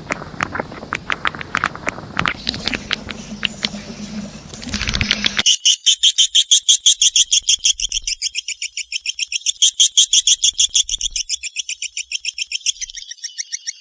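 Swiftlet calling recording (suara panggil walet), the chirping trill played to lure edible-nest swiftlets. The first few seconds are a noisier stretch of scattered chirps and clicks. It then switches abruptly to a clean, rapid run of chirps, about ten a second, that carries on to the end.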